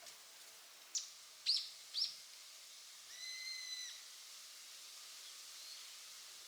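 Bird calls: three sharp chirps sliding down in pitch about half a second apart, then one longer, level whistled call about three seconds in, over faint outdoor hiss.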